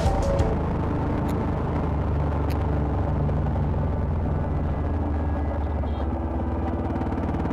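Motorcycle engine running steadily at cruising speed as the bike rides along.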